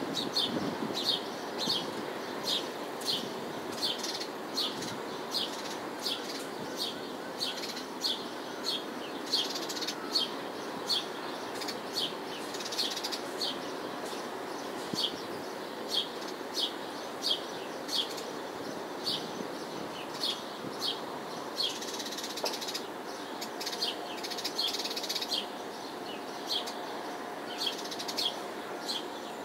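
A bird chirping over and over, a short sharp chirp about one and a half times a second at a very even pace, over the steady hum of city traffic.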